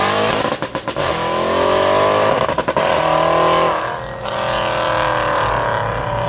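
A high-performance car engine accelerating hard, its pitch climbing and then briefly breaking off twice as it shifts up, before the throttle eases about four seconds in and the engine keeps running more steadily.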